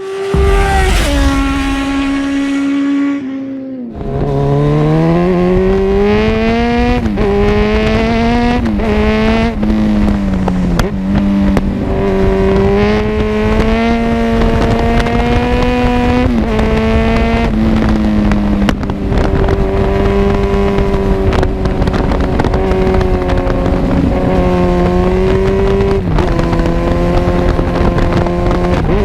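Kawasaki Z1000 inline-four through an Arrow full exhaust system, accelerating up through the gears. The pitch climbs and drops back at each shift several times after about four seconds, then the engine settles into long stretches at fairly steady revs.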